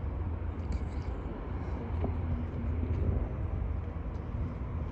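Outdoor background noise: a steady low rumble, with a faint hum coming and going.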